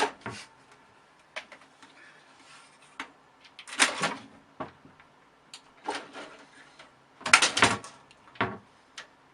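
Short bursts of scraping or rustling noise every second or two, the loudest near the end, with a few sharp knocks between them, like something being handled or bumped in a small room.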